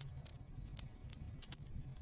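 Wood fire burning in a fireplace, with a steady low rumble of the flames and sharp crackles and pops at irregular moments, about five in two seconds.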